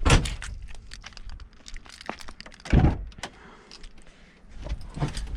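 Car door thudding shut twice, once at the start and again about three seconds in, with keys jingling and small handling clicks in between.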